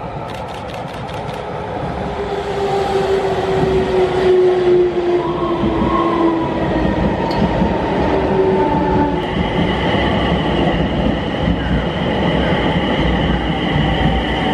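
Electric commuter train running in close by, its rumble growing louder over the first few seconds, with a motor whine that slowly falls in pitch and a higher steady whine from about nine seconds in.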